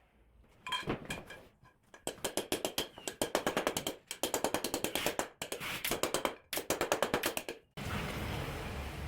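Rapid runs of hammer strikes on metal, about seven a second, with a few ringing blows about a second in; a steady rushing noise takes over near the end.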